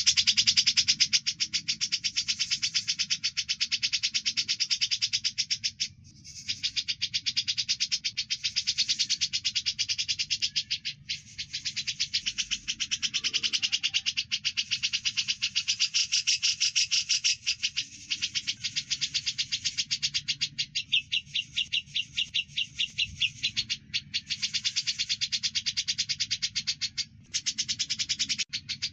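Songbirds chattering in a rapid, unbroken stream of high chirps, many a second, pausing briefly every few seconds.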